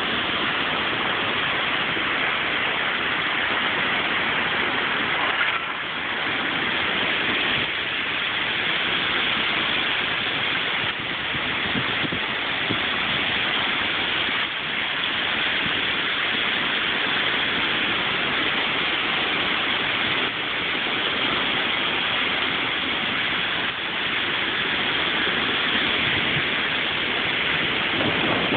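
Heavy wind-driven rain in a severe thunderstorm: a loud, steady rush of rain and gusting wind, easing slightly now and then.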